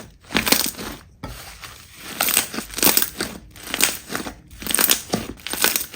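Slime being squeezed and pressed by hand: a run of short, noisy squishes, roughly one or two a second, with brief pauses between them.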